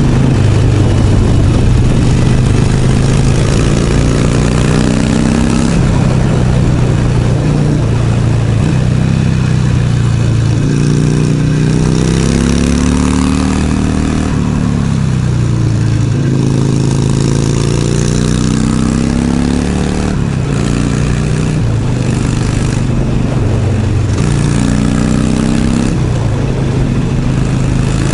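Harley-Davidson Sportster 1200's air-cooled V-twin running under way on the road. The engine note climbs in pitch and then drops back several times as the bike accelerates through the gears, shifts up and eases off, with a steady rush of wind noise behind it.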